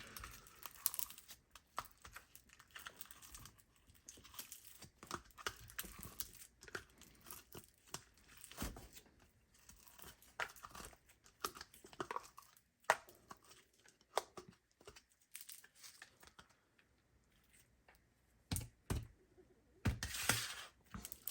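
Foam slime being stretched, squeezed and poked by hand, giving off irregular small pops and crackles, with a denser crackling burst near the end.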